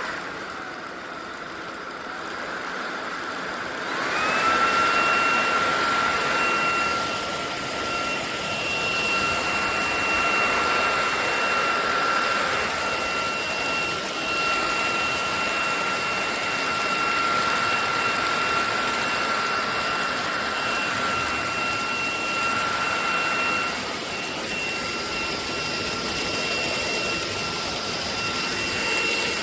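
SunSare X11 cordless stick vacuum's motor running with a steady high whine. The whine drops away at the start and stays lower for about four seconds, then spins back up and holds steady, with a brief dip near the end.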